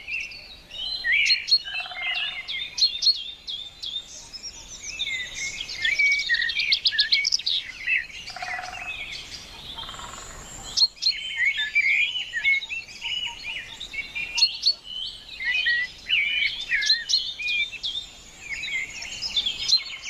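Several birds singing and chirping at once in a continuous mix of short whistles and chirps, with a fast, evenly paced trill about six seconds in.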